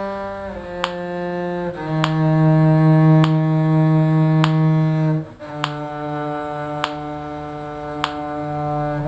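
A bowed string instrument in the low viola-cello range playing slow, long held notes, changing pitch every second or few seconds, over a metronome click about every 1.2 seconds.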